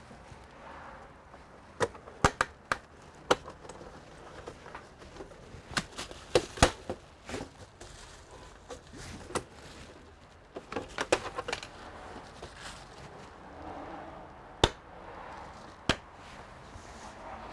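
Irregular sharp clicks and taps of hard plastic and metal parts and hand tools being handled while an all-in-one computer is taken apart, with a few louder knocks scattered among them.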